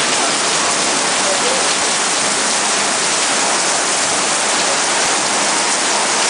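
Heavy, wind-driven rain pouring onto pavement and parked cars: a loud, steady hiss.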